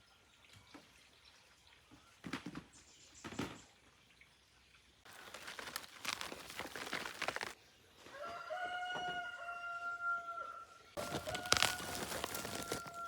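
A rooster crowing: one long held call about two thirds of the way through and another near the end. Between and under the calls come bouts of rustling, scraping noise and a couple of short knocks.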